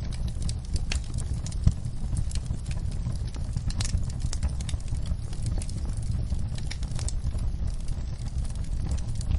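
Wood fire crackling in a fireplace: irregular sharp pops and snaps over a steady low rumble, with one louder pop about a second and a half in.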